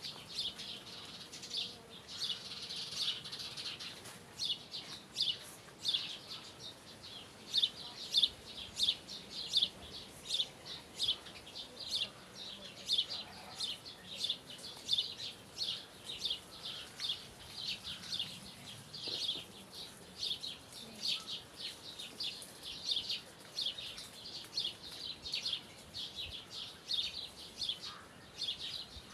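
Small birds chirping: a continuous series of short, high chirps, about two a second, over a faint background hiss.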